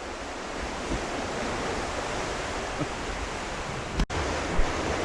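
Steady rushing noise, with a brief sudden dropout about four seconds in.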